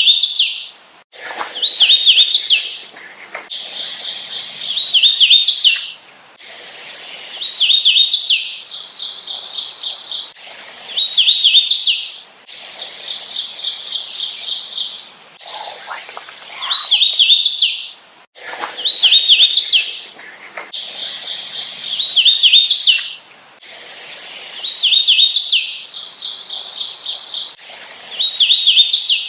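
A hooded warbler singing over and over, a new song about every four seconds. Each song is a quick run of rolling, clear whistled notes ending in a higher, emphatic note, and between songs comes a steadier run of evenly spaced repeated notes.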